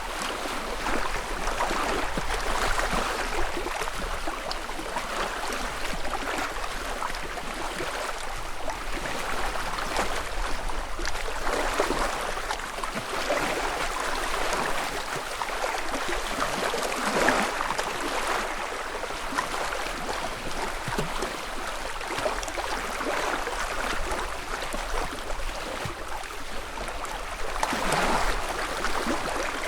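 Small lake ripples lapping steadily at the shore, each little wave swelling and washing in every few seconds, with a louder wash near the end.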